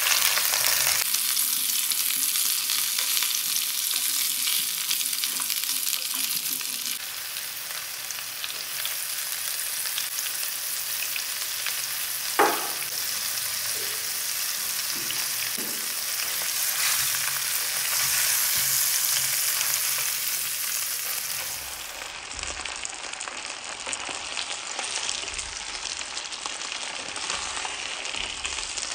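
Small potatoes sizzling in olive oil in a nonstick pan, with a spatula scraping and stirring them. A sharp tap comes about halfway through, followed by a few lighter knocks.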